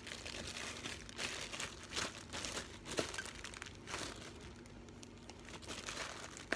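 Plastic freezer bags crinkling and rustling as they are handled and one bag is slipped inside another, with irregular rustles and a sharp click about three seconds in.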